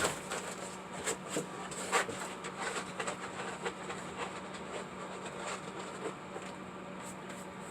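Sandpaper rubbing by hand, a series of irregular short scraping strokes a few per second, over a steady low hum.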